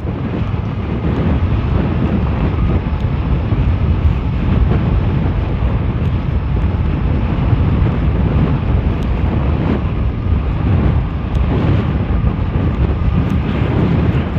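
Wind rushing over a helmet-mounted microphone and the rumble of fat tires rolling over a dirt road on an all-wheel-drive electric fat-tire bike at speed. The noise is steady and deep, with a few faint knocks.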